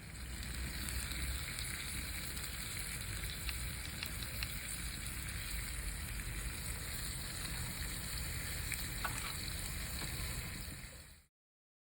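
Wood fire burning in a homemade tin-can mini wood stove: a steady hiss with fine crackles. It cuts off abruptly near the end.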